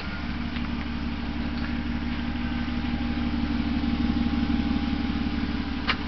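BMW E36 engine and exhaust running at idle, warm, growing a little louder towards the middle and easing back. A short sharp click comes near the end.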